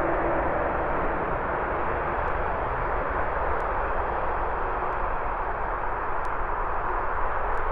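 Boeing 787 Dreamliner's jet engines running, a steady, dense rushing noise.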